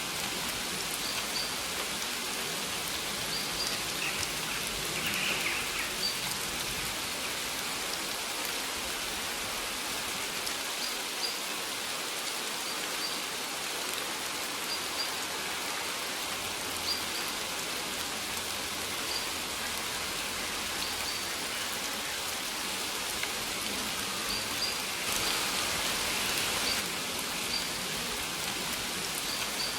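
Steady rain falling, with short high bird chirps recurring through it every second or two.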